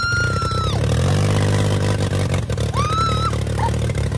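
Motorcycle engines running steadily. Over them come two long high-pitched calls, one at the start and a shorter one about three seconds in.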